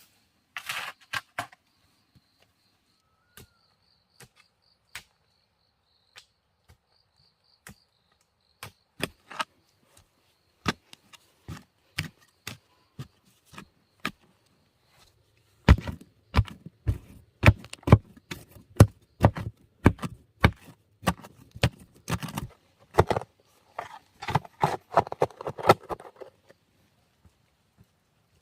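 Blade chopping wood: scattered sharp strikes, then a fast run of heavier chops about halfway through that lasts roughly ten seconds. A faint steady insect buzz runs under the first part.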